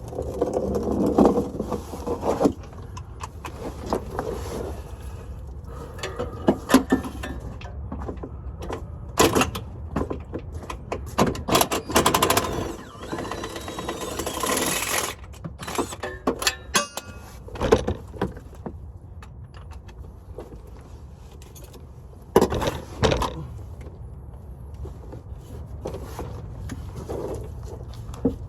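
Hand tools and metal parts being worked on a vehicle: irregular metallic clanks, knocks and scrapes, busiest in the middle, over a steady low hum.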